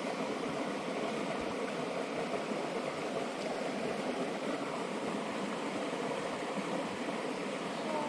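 Steady rush of a jungle mountain stream's flowing water, even and unbroken.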